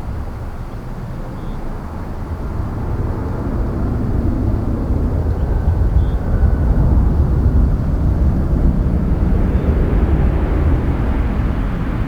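Jet airliner engines rumbling as a plane passes, growing louder over the first half and staying loud, with a rising hiss near the end.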